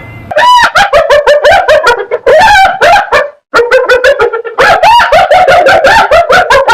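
A canine yapping in rapid, high calls, about six a second, in three runs broken by short pauses about three and a half and four and a half seconds in.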